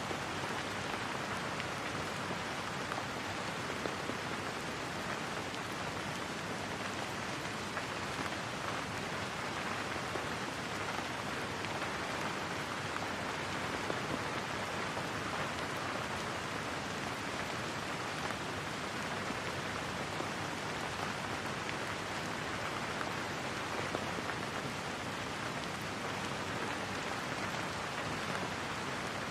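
Steady rain falling, an even hiss of rain on surfaces with no thunder.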